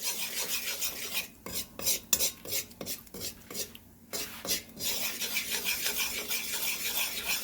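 A spoon stirring and scraping against a cooking pot, with scattered clinks in the middle, over a steady hiss of curry powder being burned out in hot oil before the chicken goes in.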